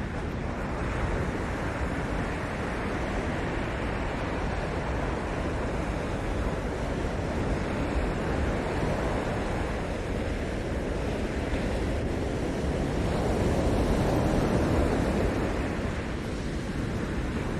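Ocean surf washing steadily onto the shore, swelling louder about three-quarters of the way through as a bigger wave breaks.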